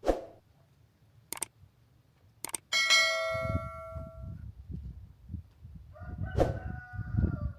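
A few light clicks, then a metal object is struck once with a clang that rings out and fades over about a second and a half. Near the end a rooster crows.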